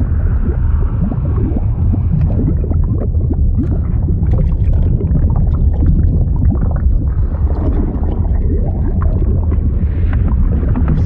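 Fluid sound effect: a steady, deep churning rumble of liquid with many small gurgles and pops throughout.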